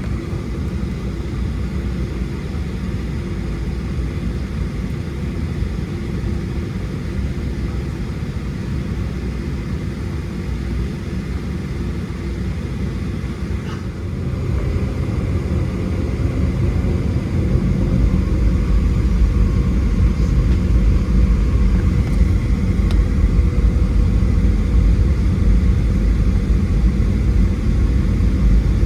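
Cabin noise inside a Boeing 737-700 airliner: a steady deep rumble of engines and airflow. It grows louder about fourteen seconds in, then turns into a much heavier low rumble from about seventeen seconds on.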